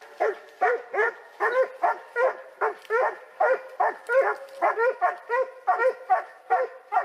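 Hunting dogs barking in a rapid, unbroken series, about three barks a second, typical of dogs baying at a wild boar.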